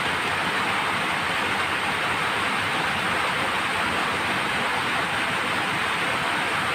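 Chicken and vegetables sizzling in a wok as their liquid cooks off, a steady hiss.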